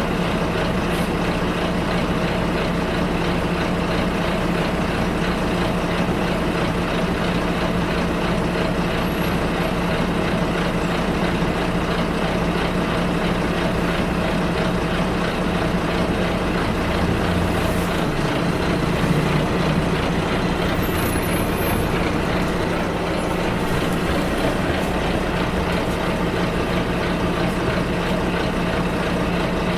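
Bus ride heard from inside the bus: a steady engine drone with road noise, the engine note shifting about two-thirds of the way through.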